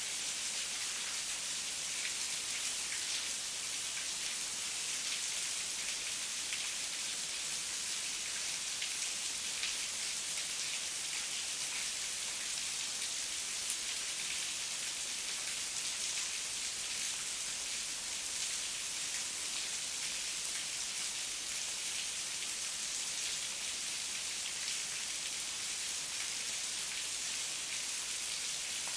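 Heavy rain falling steadily, a dense even hiss with many fine drop patters and no thunder.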